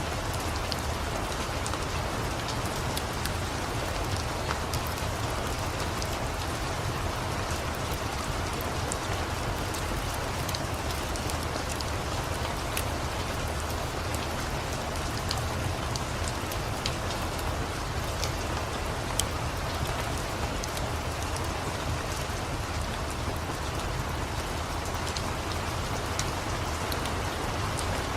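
Steady rain falling, with the faint crackle of a wood fire: small scattered clicks and pops through the even hiss.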